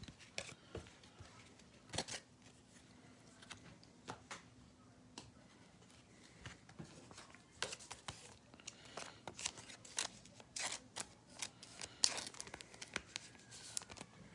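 Faint, scattered clicks and short scrapes of trading cards and their packaging being handled, getting busier in the second half.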